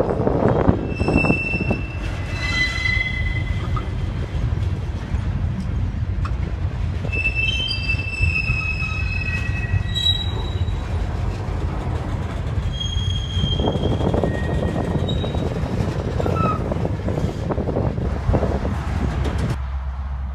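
Freight train cars rolling past with a steady rumble and clatter, while the wheel flanges squeal in several high-pitched tones that come and go. The train sound cuts off suddenly near the end.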